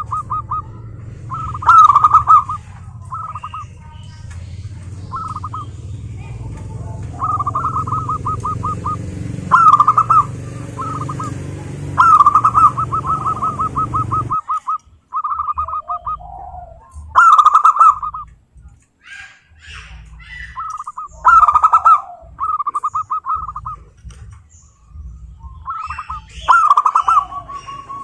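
Zebra doves cooing: repeated phrases of rapid, staccato pulsed coos, several of them opening with a louder note. A low background hum stops about halfway through.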